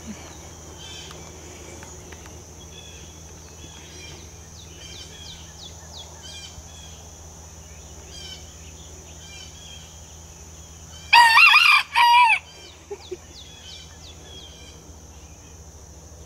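Cochin bantam rooster crowing once, a loud cock-a-doodle-doo about eleven seconds in, over a steady high hum and scattered faint chirps.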